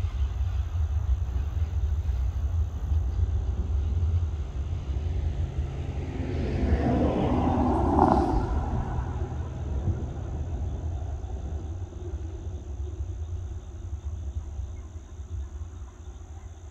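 Container freight train rolling away on the rails, a low rumble of its wagons that swells to its loudest about eight seconds in, then fades as the train draws off into the distance.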